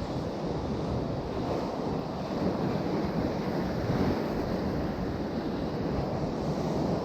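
Sea surf washing steadily on the shore, with wind buffeting the microphone in a low rumble.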